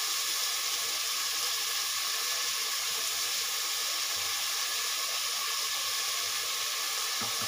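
Chopped onions sizzling in hot oil in a pressure cooker pan: a steady frying hiss.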